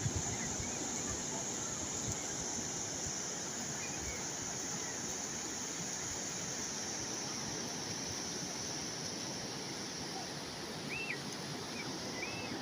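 Calm sea waves washing steadily, with wind rumbling on the microphone; a few short high chirps near the end.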